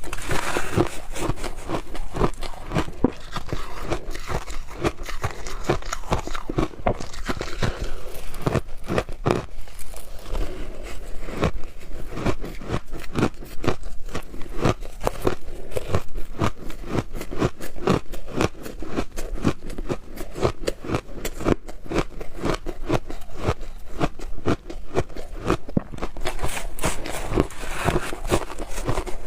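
Frozen shaved ice being bitten and chewed close to the microphone: dense, continuous crunching with many sharp cracks a second.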